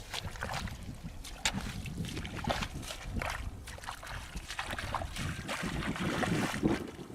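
Water splashing and sloshing in irregular strokes, as from hands or feet moving through shallow water.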